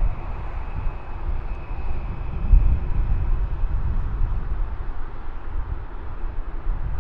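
Jet airliner engines: a steady low rumble with a faint high whine that fades over the first few seconds, with wind buffeting the microphone.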